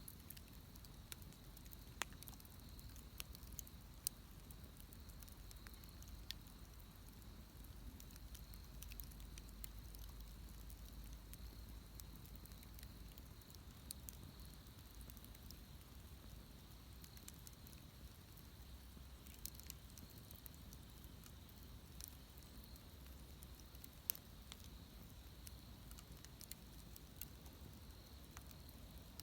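Faint wood bonfire crackling, with irregular small pops and a few sharper snaps over a low hiss.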